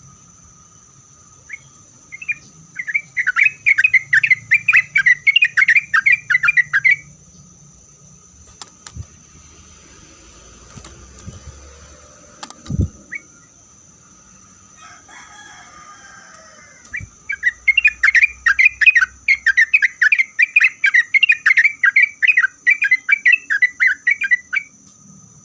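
Yellow-vented bulbul singing in two long, loud bouts of rapid chattering notes, several notes a second, with a quiet gap of about ten seconds between them.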